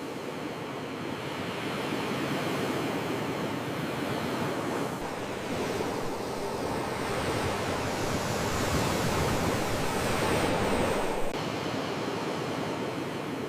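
Sea waves washing ashore, a steady rushing wash that swells to its loudest about ten seconds in and then eases.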